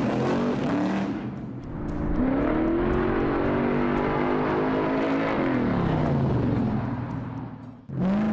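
Muscle car's engine revving. Its pitch dips about a second in, climbs back and holds high, then falls away. It cuts out briefly near the end and starts rising again.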